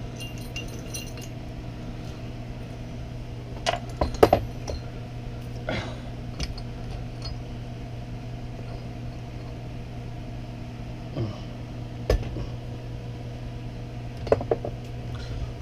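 Metal differential parts and tools clinking and knocking against each other a few times, over a steady low hum.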